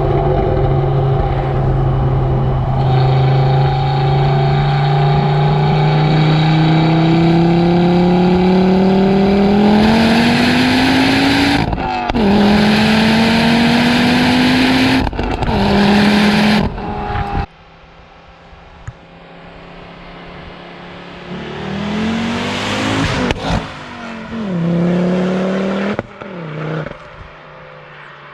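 Ford Focus RS mk2's turbocharged five-cylinder engine, breathing through an HG Bull downpipe, accelerating hard, its note climbing steadily and then through quick upshifts with brief breaks. About 17 seconds in the sound drops away sharply, and the engine is heard fainter, revving up and down again.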